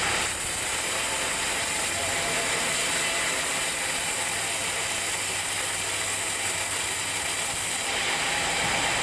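Sawmill machinery running steadily, a continuous hissing mechanical noise with a faint low hum underneath.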